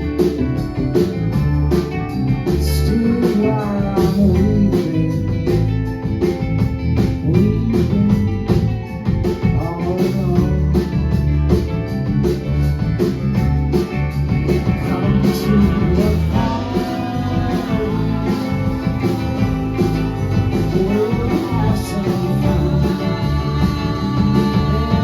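Live band music: guitar over bass and drums, with a steady beat and a melody line that bends up and down.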